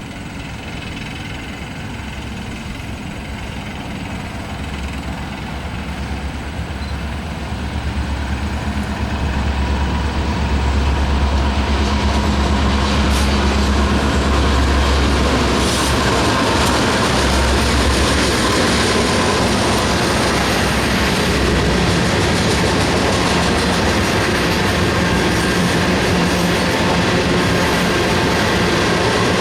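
Union Pacific train passing on the rails: a low engine drone grows louder over the first ten seconds or so and fades after about sixteen seconds, giving way to the steady rumble and clatter of the cars rolling by.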